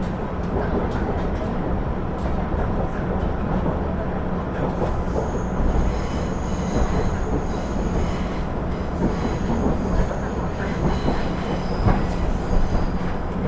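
JR KiHa 112 diesel railcar running, heard from inside the car: a steady rumble of engine and wheels on the rails. About five seconds in, thin high-pitched wheel squeal sets in and carries on, coming and going.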